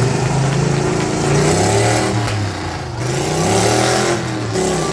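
Several small lawn tractor engines running at once, revving so that their pitches rise and fall over one another.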